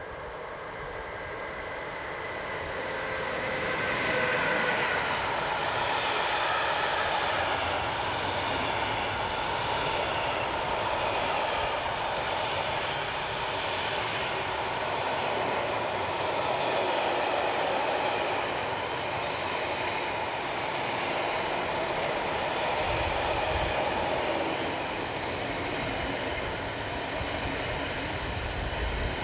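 Railpool BR193 Siemens Vectron electric locomotive passing, followed by a long intermodal container train rolling by: a steady rumble and rattle of wheels on rail that grows louder over the first four seconds and then holds.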